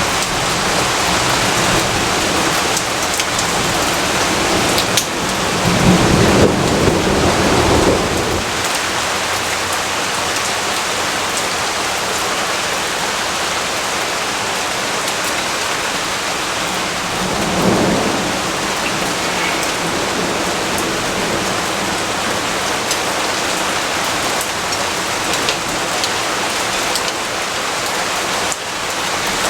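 Steady rain falling, with two rumbles of thunder: a longer one about six seconds in and a shorter one a little past the middle.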